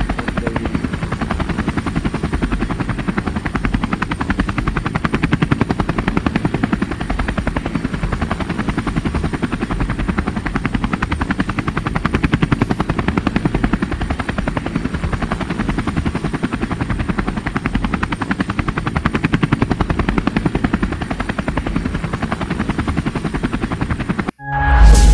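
Small DC motor spinning the rotor of a home-made PVC-pipe toy helicopter, running steadily with a fast chopping buzz, until it cuts off suddenly near the end.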